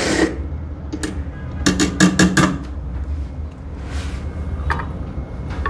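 Metal clinks and knocks of a portafilter and dosing tools being handled while coffee grounds are weighed into it: one about a second in, a quick run of about half a dozen about two seconds in, and another near the end, over a low steady hum.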